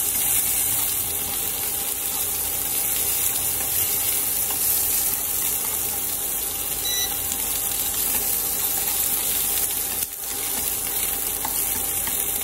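Garlic, lemongrass and snails sizzling steadily in hot oil in a pan as they are stir-fried.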